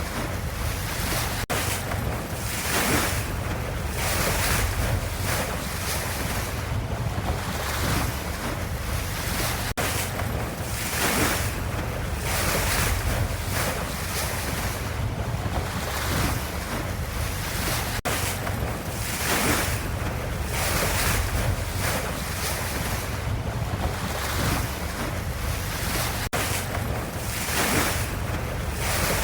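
Ocean waves washing: a steady rush of surf that swells every couple of seconds, over a low rumble.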